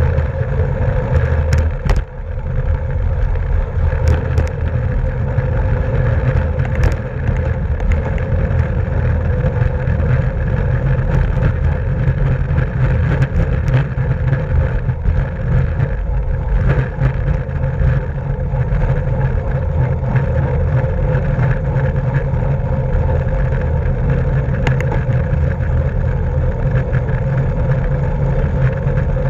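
Wind rushing and buffeting over the microphone of a camera riding on a racing bicycle at speed, a heavy fluctuating rumble with a steady hum from tyres and drivetrain underneath. A few sharp clicks come through, the first about a second and a half in.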